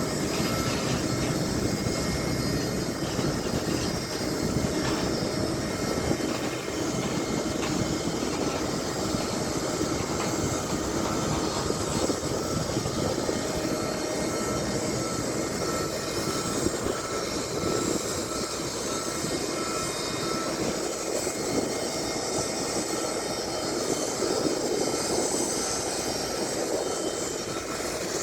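Steady aircraft noise: a continuous rushing hum with faint steady whining tones over it.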